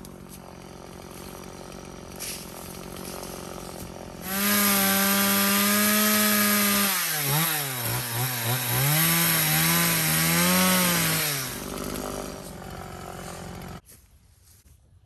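Chainsaw idling, then opened to full throttle about four seconds in. Its pitch dips and wavers as it bogs cutting through branches, then it falls back to idle and stops abruptly near the end.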